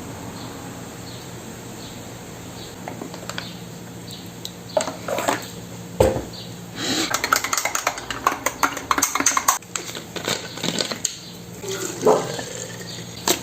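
Hard kitchen items clinking and clattering as they are handled. There are a few clicks, then a sharp knock about six seconds in, then a quick run of clatter for a few seconds, then scattered clicks.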